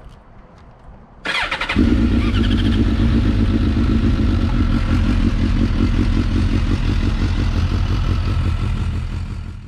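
A motorcycle engine is started: the starter cranks for about half a second just over a second in, the engine catches, and it then idles steadily.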